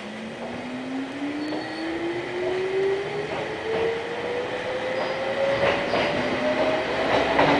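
Toyama Chihō Railway 14760-series electric train accelerating, heard on board: the traction motor whine rises steadily in pitch as the running noise grows louder. A few sharp clicks come near the end.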